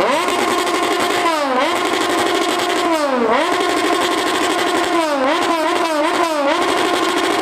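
Loud superbike engine revved hard and held at high revs, its pitch dipping and climbing back each time the throttle is briefly eased: once about a second and a half in, again about three seconds in, and four quick times near the end.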